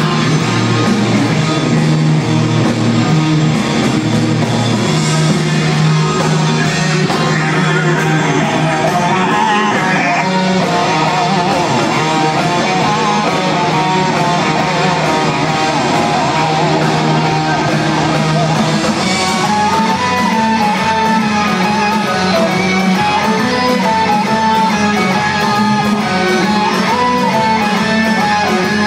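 Rock music led by electric guitar, with a steady bass line; a melodic guitar lead comes to the fore about two-thirds of the way through.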